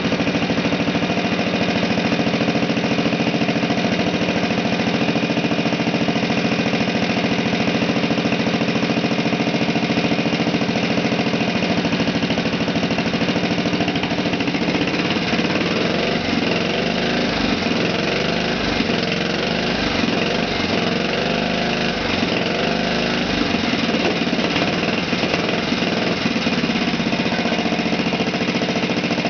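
Vintage 1948 Briggs & Stratton model WI single-cylinder four-stroke engine running steadily on the bench, its note wavering unevenly for a stretch in the middle before steadying again.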